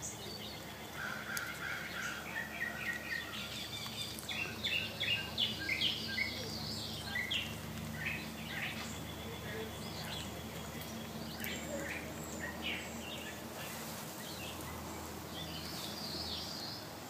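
Small birds chirping: quick runs of short high notes, busiest in the first half and again near the end, over a faint steady low hum.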